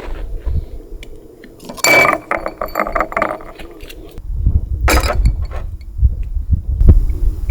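Rapid mechanical clicking and clinking, like a ratchet, about two seconds in, then a second short sharp burst about five seconds in, with low rumbling handling noise in between.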